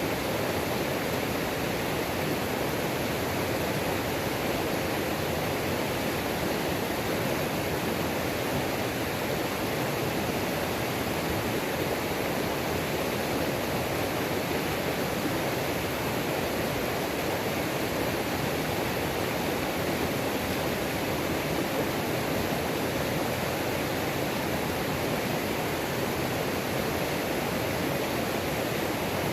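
Mountain creek waterfall: water pouring and splashing over rocks in a steady, unbroken rush.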